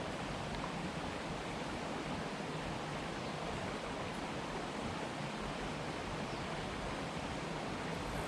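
Steady rush of a rocky forest stream flowing over stones.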